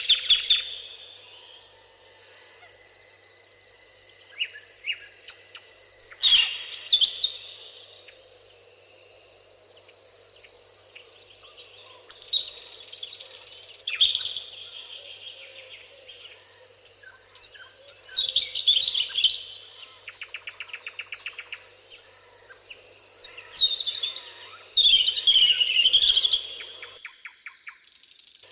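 Songbirds singing in loud, varied phrases every five or six seconds, with a quick pulsing trill about twenty seconds in. A steady high tone runs underneath throughout, along with a low steady hum that stops near the end.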